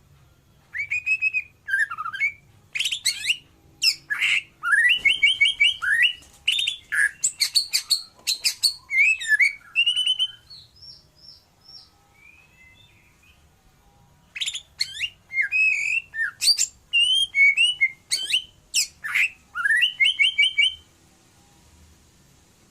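Nias white-rumped shama (murai batu) singing in full voice: rapid runs of loud, varied whistles, sweeping notes and trills for about ten seconds, a few soft notes and a short pause, then another burst of song from about fourteen seconds in.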